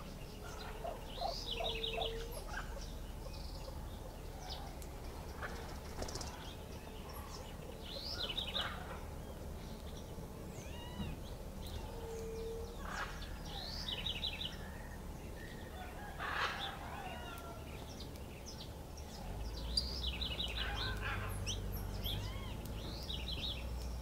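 Birds calling around a feeder: a phrase of quick high trilled notes repeats every few seconds among scattered chirps and whistles, and a short low hooting note sounds twice. A low rumble rises in the background during the last few seconds.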